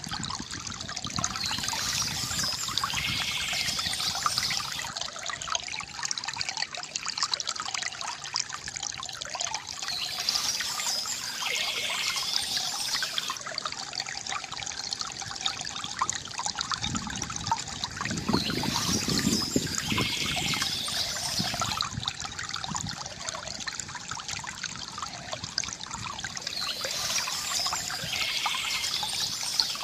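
Water trickling and gurgling steadily from a bamboo fountain, with a fuller, deeper splashing for a few seconds past the middle. A brief higher-pitched sound recurs about every eight or nine seconds.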